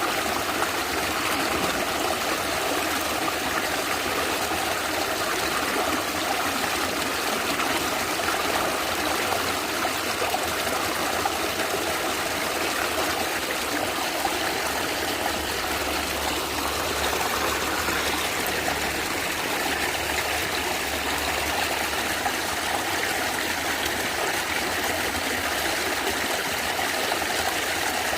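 Natural stream of water gurgling and trickling steadily over rocks.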